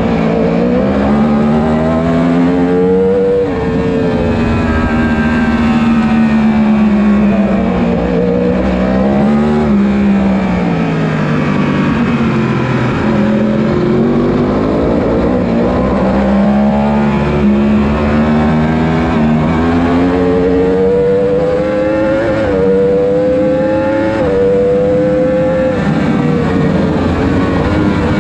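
Litre-class (1000 cc) superbike racing motorcycle engines at racing revs. The engine note climbs through the gears with sudden drops at each upshift, then falls away as the bikes brake and downshift, and this repeats over and over.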